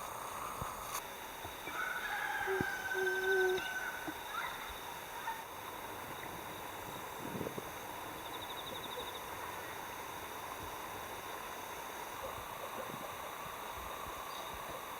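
Rooster crowing once, a single drawn-out crow starting a couple of seconds in, over a faint steady background hum.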